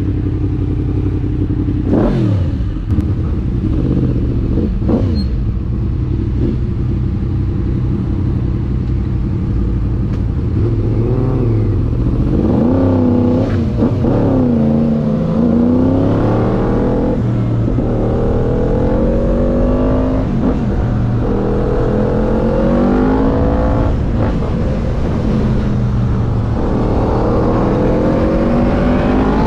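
High-performance motorbike engine blipped a couple of times, then accelerating hard through the gears, its pitch climbing and dropping back at each upshift.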